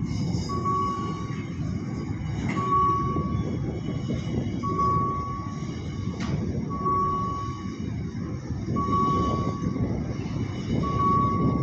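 Freight train rumbling past a level crossing, its wheels and wagons making a steady low noise. Over it, a short high electronic beep from the crossing warning signal repeats about every two seconds.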